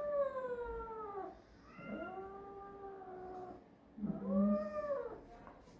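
A six-month-old female cat yowling three times in long drawn-out meows, each rising and then falling in pitch. She is stressed at being held wrapped in a towel for a blood draw.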